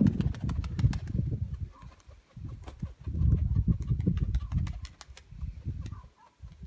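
Nikolaev pigeons flapping their wings close by: rough bursts of wingbeats, broken by a short pause about two seconds in, then fading to scattered flutters.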